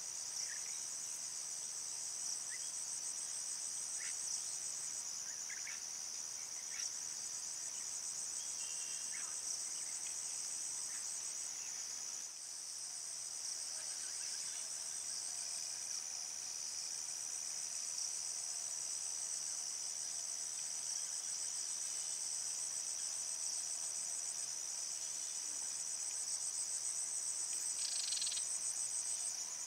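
A chorus of crickets and other insects trilling continuously at a high pitch, with a very fast pulsing texture, at a steady level. A few brief, fainter chirps come through in the first third.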